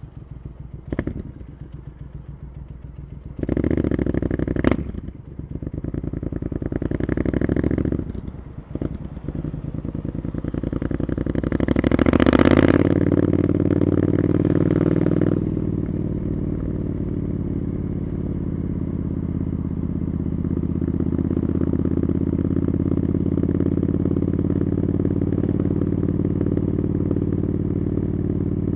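Triumph Scrambler 900's parallel-twin engine running through an aftermarket Arrow exhaust, heard from the rider's position. In the first half the revs rise and fall in short bursts, with a couple of sharp clicks. It then pulls up to a peak about twelve seconds in, eases off and settles to a steady cruise.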